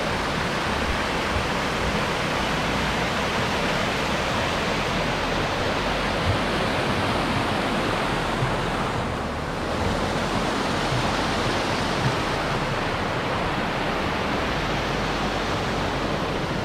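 Steady rushing noise with an irregular low rumble underneath. It dips briefly about nine seconds in.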